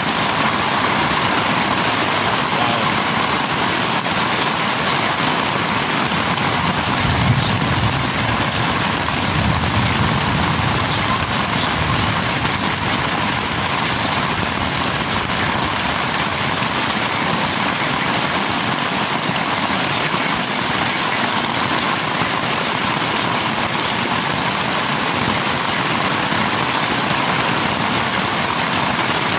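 Heavy torrential rain pouring steadily onto a tent, a dense even hiss of rain on the fabric with no letup.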